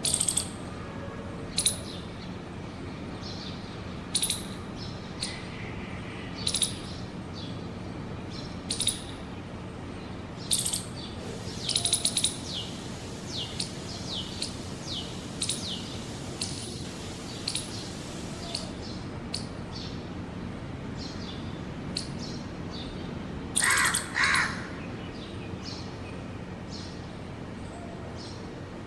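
Small birds chirping: short high chirps every second or two, a run of quick falling chirps a little under halfway, and a louder double call about three-quarters through, over a steady low hum.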